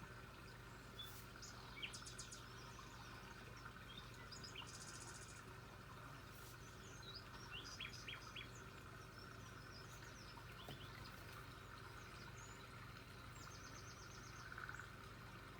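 Faint birdsong: scattered short, high chirps and two quick rattling trills, one about five seconds in and one near the end, over a steady low background hum.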